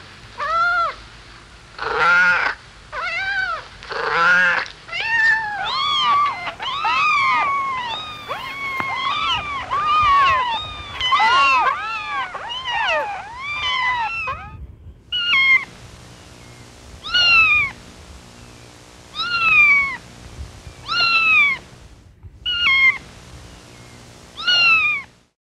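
Kittens meowing: high-pitched meows overlap thickly in a busy chorus through the first half. After a short break, single meows come about every two seconds.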